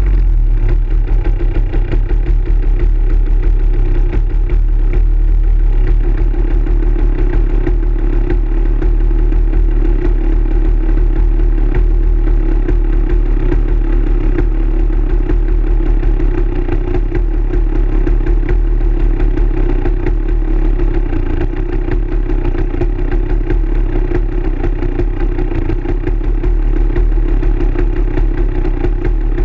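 Dirt bike engine running steadily at an even pace, without big revs up or down.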